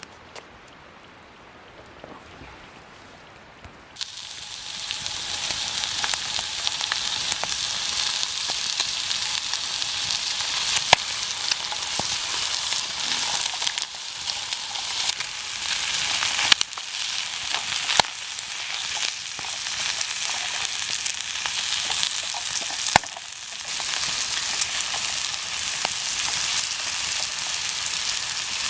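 Food frying in a hot oiled pan over a campfire. The sizzling starts suddenly about four seconds in as the food goes into the pan, and holds steady with occasional sharp pops and spatters.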